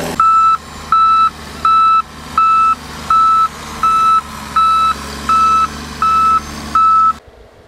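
A vehicle's reversing alarm beeping, ten evenly spaced beeps at about one every 0.7 s, over a low engine running. Both cut off suddenly near the end.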